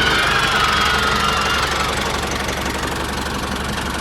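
A DIY mini tractor's small engine idling with a steady, rapid knocking beat.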